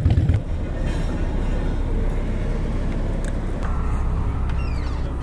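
Harley-Davidson Iron 883's air-cooled V-twin engine running at low speed. The rumble is louder in the first half-second, then settles into a steadier, lower run.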